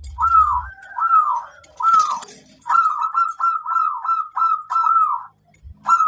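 Zebra dove cooing its song: a string of short, arched coos, a few spaced ones and then a quicker run of about eight, with a brief break before it starts again near the end.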